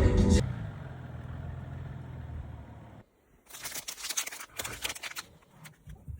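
Car engine idling with a steady low hum, then after a short break a run of clicks and rattles.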